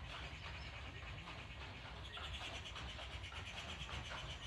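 Water running steadily onto plant leaves, with a continuous high, fast-pulsing chirring above it.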